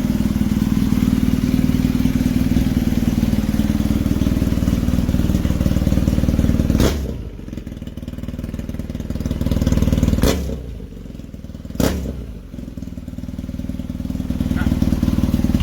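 Motorcycle engine with a Proformance aftermarket exhaust, running steadily for about seven seconds, then revved in a few swells with sharp breaks between them.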